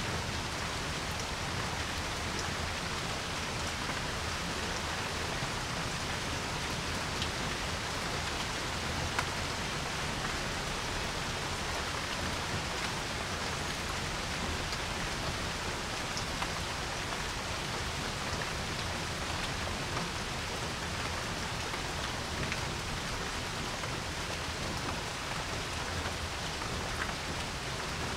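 Steady rain falling on a porch, an even hiss with individual drops ticking now and then, a couple of sharper ones about seven and nine seconds in.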